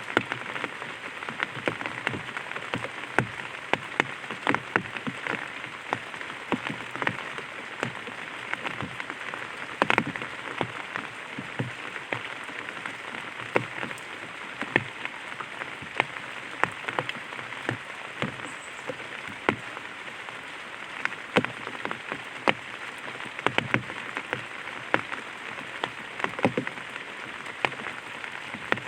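Light rain falling on an umbrella: a steady patter with frequent, irregular louder drops tapping on the canopy.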